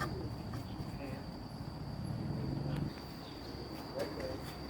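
Crickets or similar insects singing one steady high-pitched note. Under it a low rumble runs until it stops abruptly about three seconds in.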